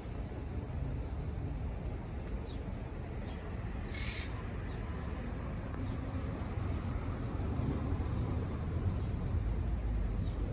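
Outdoor ambience: a steady low rumble with faint, scattered bird chirps, and one short hiss about four seconds in.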